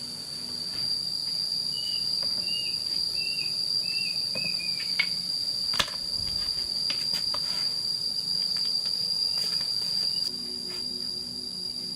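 Steady high-pitched insect drone. A short run of about five chirps comes a couple of seconds in, and a sharp click sounds just before the middle.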